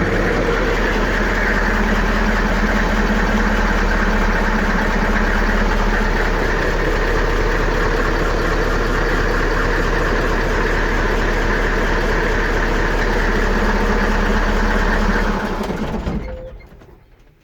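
Magirus Deutz A6500's Deutz F8L614 air-cooled V8 diesel idling steadily after a cold start, then shut off near the end and running down to a stop.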